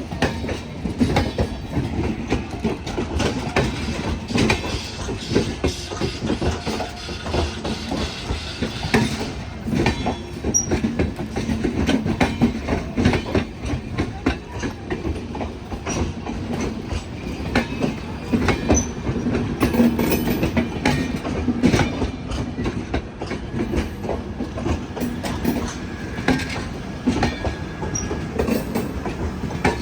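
Passenger train coaches rolling over a railway diamond crossing: a steady rumble with a dense, irregular clatter of wheels knocking over the crossing's rail gaps, and a few brief faint wheel squeals.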